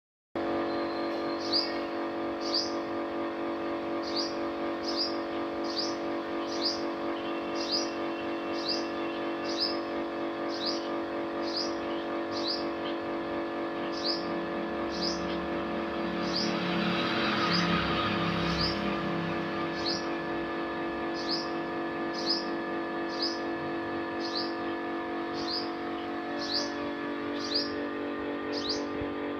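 A small bird calls a short, sharp, high chirp over and over, one or two a second, over a steady low hum. Around the middle a broader rushing noise swells and fades, like a passing vehicle.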